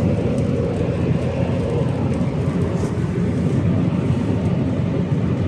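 Pickup truck driving at road speed: a steady low rumble of engine and tyre noise.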